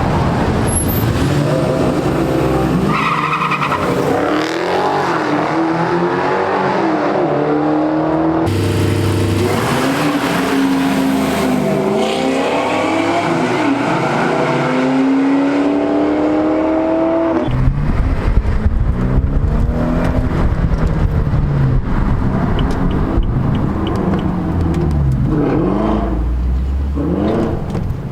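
Several car engines revving and accelerating, their pitch rising and falling and overlapping, with the sound changing abruptly about two-thirds of the way through.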